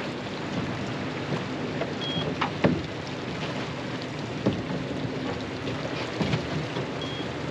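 Boat motor running steadily, with water and wind noise and a few sharp clicks.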